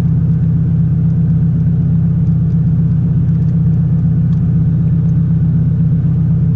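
Car engine idling, a steady low rumble that holds even throughout.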